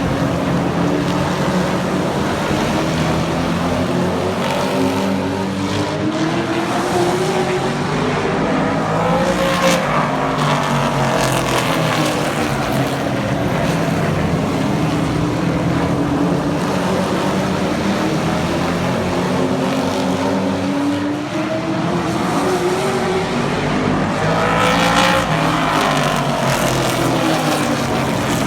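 Super truck racing engines at speed around a short oval, a steady din of engines with trucks passing close by about ten seconds in and again near the end, engine pitch rising as they approach and dropping as they go by.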